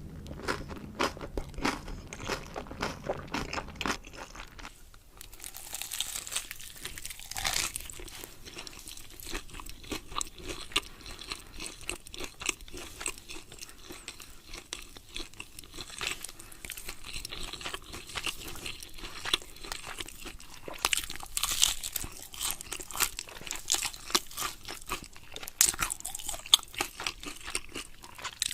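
Close-miked eating: crunchy food being bitten and chewed, a dense run of crackly crunches in the first few seconds, softer chewing after, and more sharp crunches near the end.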